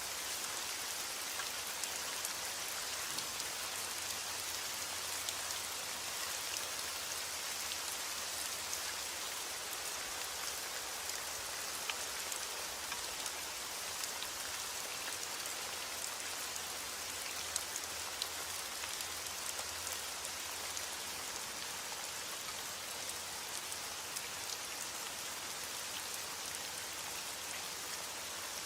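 Steady rain falling on a surface, a constant hiss with many small, sharp drop taps scattered through it.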